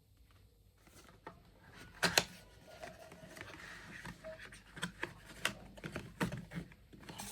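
Irregular light knocks and clicks of objects being handled, about a dozen over several seconds, the loudest a sharp double knock about two seconds in.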